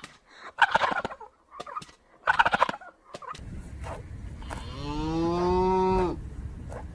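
Poultry calling in short harsh bursts, then a cow gives one long moo that drops in pitch at its end.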